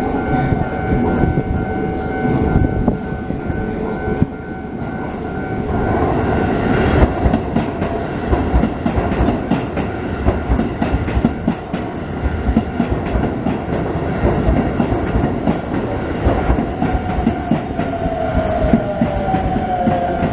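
Keisei Kanamachi Line train passing over a level crossing, its wheels clattering over the rail joints. The crossing's warning bell sounds as a steady tone for the first few seconds, and a falling whine comes in near the end.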